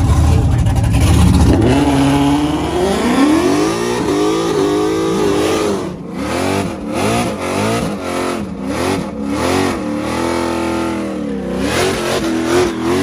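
Performance car engine revved hard: a deep rumble, then the pitch climbs and holds high, then the throttle is blipped up and down repeatedly.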